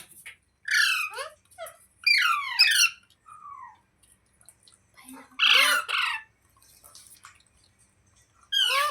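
Green parrot giving a series of harsh screeching squawks in short bursts, each a quick run of falling notes, with the loudest about two to three seconds in and a noisier one near the middle.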